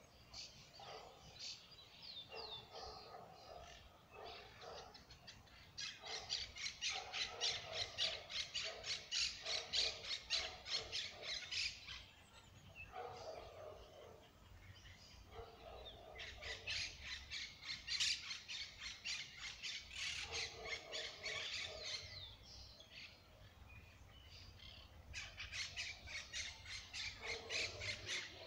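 Birds squawking and chirping in bouts of rapid, harsh notes, each bout lasting several seconds, with short lulls between.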